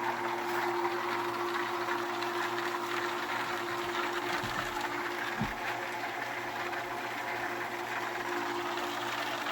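Electric water pump, just primed, running with a steady hum while it builds pressure in the line. A brief low thump about five and a half seconds in.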